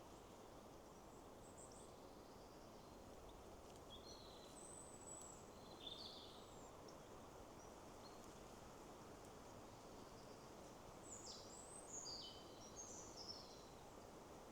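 Faint songbirds singing short, high chirping phrases, a few in the first half and a busier run near the end, over a steady low rush of wind through trees.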